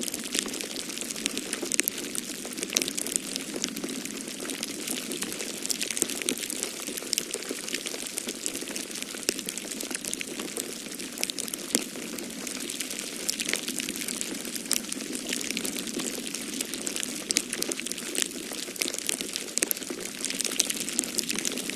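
Wood fire crackling in a fireplace: many small, irregular sharp crackles and pops over a steady rushing hiss of snowstorm wind.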